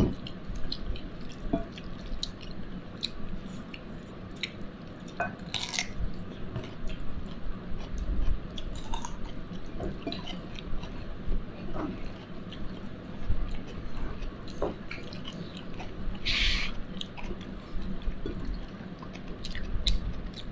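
A person chewing food close to the microphone, with wet mouth sounds and many small clicks and smacks. Two brief louder hissy noises come about a third of the way in and again near the end.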